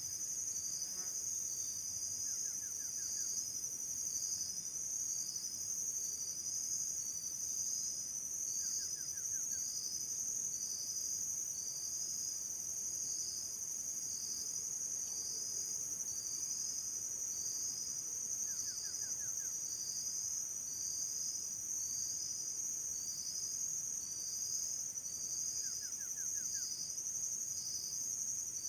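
Insects chirping steadily: a continuous high buzz with a shorter chirp repeating about once a second. Four times a brief quick run of lower notes cuts in.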